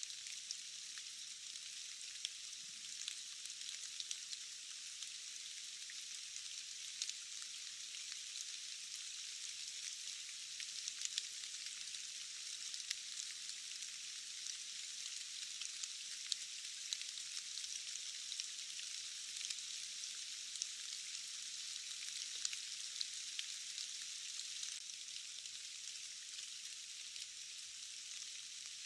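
Steady rain: a thin, even hiss with no low end, dotted with many small ticks of individual drops.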